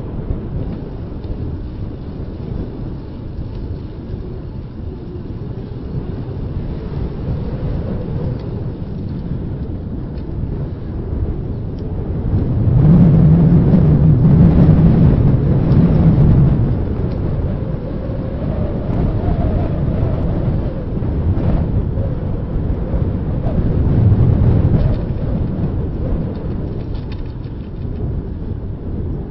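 Wind buffeting a handheld camera's microphone while riding a bicycle: a steady low rumble that swells louder for a few seconds about halfway through and again briefly later on.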